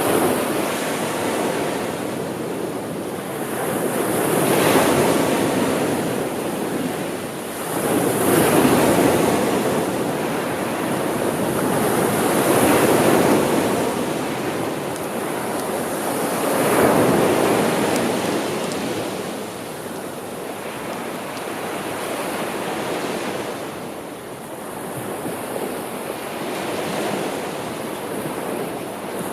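Sea waves washing ashore, a steady surf hiss that swells and falls back about every four seconds, the swells softer in the later part.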